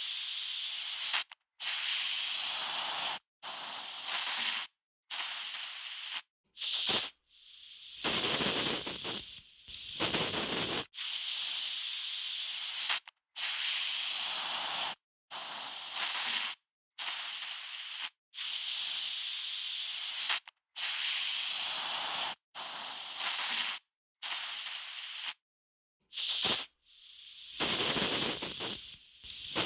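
Aerosol spray can sprayed in repeated bursts of varying length, from a short puff to about two seconds. Each hiss starts and stops abruptly, with short silent gaps between.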